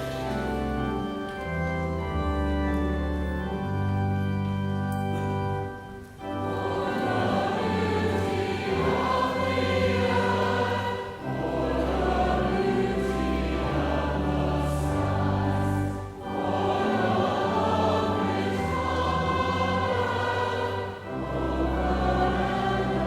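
Church organ playing sustained chords, joined about six seconds in by many voices singing a hymn with the organ.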